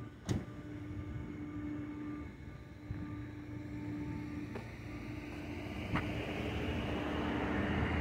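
Car driving, engine hum with road noise that grows louder over the last few seconds, and a sharp click near the start and another about six seconds in.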